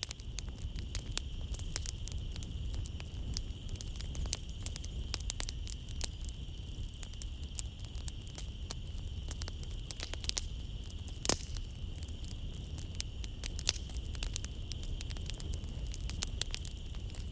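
Wood fire crackling in a fireplace, with dense irregular snaps and pops, the loudest pop a little past the middle, over a low steady rumble of the flames. A steady high chirring of night insects runs behind it.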